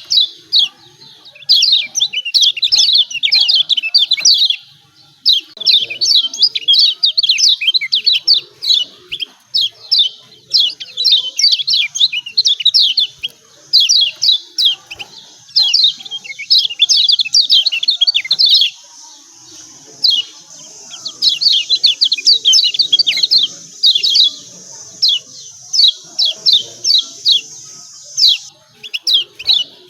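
Kecial kuning (Lombok yellow white-eye) calling in fast, excited trains of sharp 'ciak ciak' chirps, each note quickly dropping in pitch, the bursts broken by brief pauses. A faint steady hiss sits under the calls from about halfway through and stops shortly before the end.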